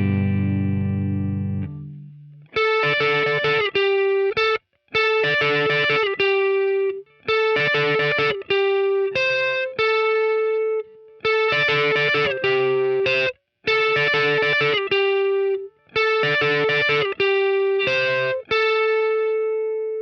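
Electric guitar with a Telecaster-style body and light overdrive, played through an amp. A chord rings out and fades, then a short lick is repeated about seven times, each phrase settling on a held note, with the last note ringing longest.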